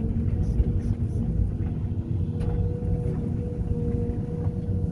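Heavy diesel engine running steadily: a low rumble with a steady hum over it and a few faint knocks.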